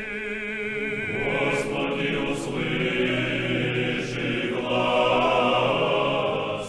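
Orthodox church choir singing a liturgical chant. A single held, wavering note opens it, and many voices sing together from about a second in.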